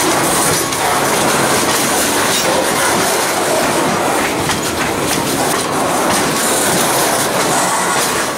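Freight boxcars rolling slowly past at close range over rough, poorly kept track: steel wheels running on the rails, with many clanks and clicks from the trucks and rail joints.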